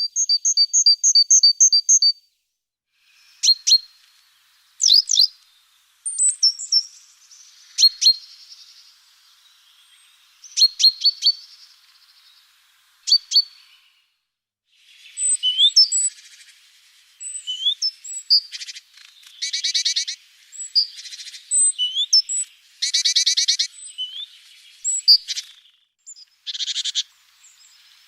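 Small songbirds calling and singing, several overlapping. A quick run of about eight repeated notes opens it, then come scattered sharp chirps, with denser trills through the second half.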